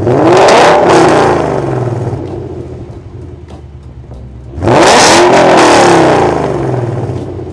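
2016 Ford Mustang with a Valvetronic Designs aftermarket exhaust, revved twice from idle. Each rev rises quickly and falls back to idle over about two seconds, the second starting near the five-second mark.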